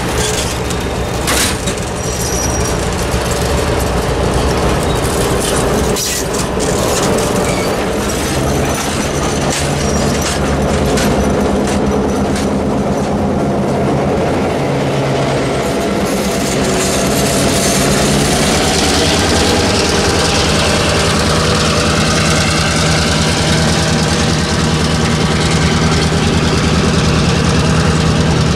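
Stainless-steel passenger cars of a diesel-hauled train rolling through a grade crossing, wheels clicking over the rail joints with a faint squeal. A diesel engine's steady drone underneath grows louder in the second half.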